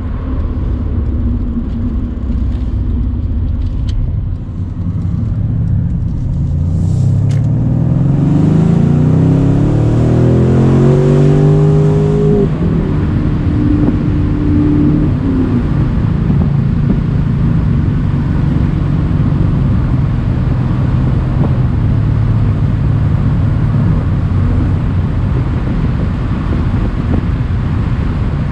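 Mercedes-AMG C63's twin-turbo V8 accelerating, its pitch rising steadily from about six seconds in until it drops away suddenly around twelve seconds. It then runs evenly at cruising speed under steady road and wind noise from the open-top car.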